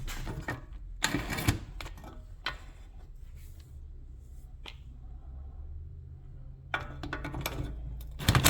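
Impact wrench hammering in two short bursts, about a second in and again near the end, on a seized Torx bolt at a Honda's rear hub. The bolt does not break loose.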